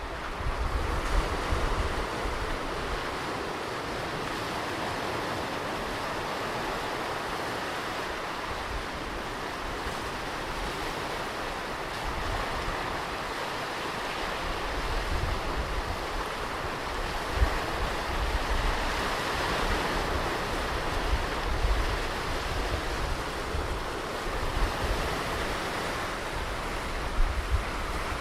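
Ocean surf washing onto a beach in a steady, swelling wash, with wind gusts rumbling on the microphone now and then.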